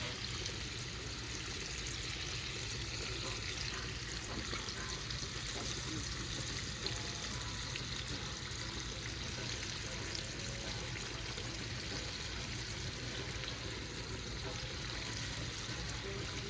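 Battered crappie pieces frying in hot oil: a steady sizzle with a few faint crackles.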